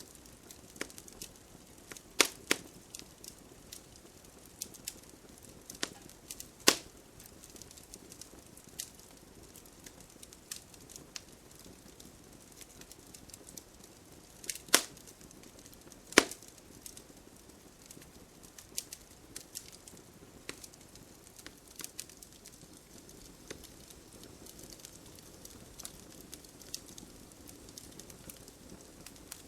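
Campfire burning, wood crackling with irregular sharp pops over a faint hiss, a handful of the pops much louder than the rest.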